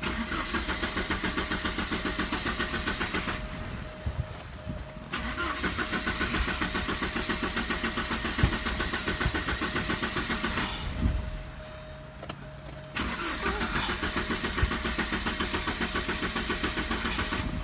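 1988 Porsche 944's four-cylinder engine being cranked by the starter in three long attempts, each a fast, even chugging, without catching: a no-start with the DME relay jumped and the air flow meter unplugged.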